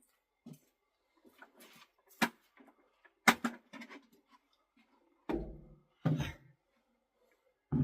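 Scattered sharp knocks and clatter, then two duller thumps about five and six seconds in, from handling a chicken-feed bag and food bucket.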